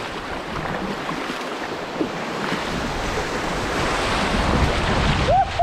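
Whitewater rapids rushing around a kayak, growing louder as it runs into them. A short whoop near the end.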